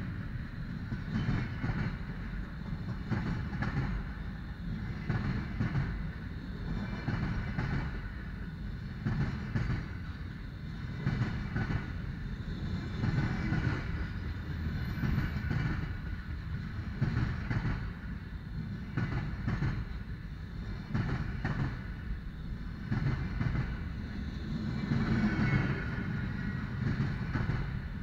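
Freight train of empty container flatcars rolling past close by: a steady low rumble of steel wheels on the rails, with frequent knocks and clatter as the wheelsets pass.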